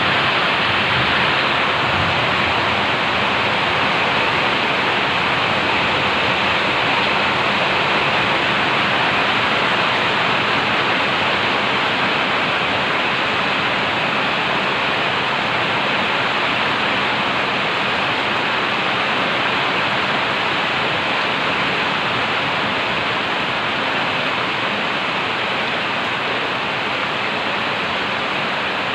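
Heavy downpour: a dense, steady hiss of rain falling.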